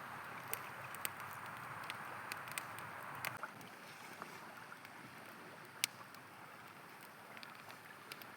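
A river flowing steadily, with a campfire crackling and giving off sharp pops throughout, one loud pop a little before the end. The rush of water eases slightly about a third of the way in.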